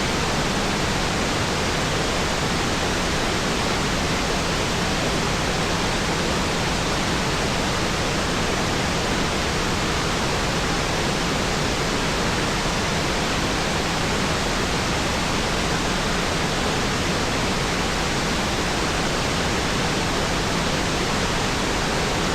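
Waterfall: the steady, loud rush of falling water, an even roar with no breaks.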